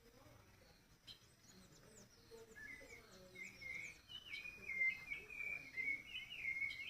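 A songbird singing a fast run of short chirping, warbling notes. The song starts about two seconds in and grows louder toward the end, with fainter high chirps and a steady high insect buzz behind it.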